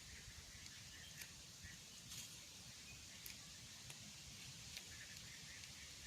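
Near silence: faint outdoor background with soft high chirping and a few light clicks or ticks.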